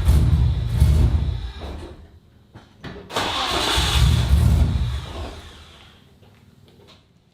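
Nissan Skyline engine cranked on the starter in two bursts of about two seconds each, with a short blip in between. It dies away after the second burst instead of settling into an idle: the engine is reluctant to start.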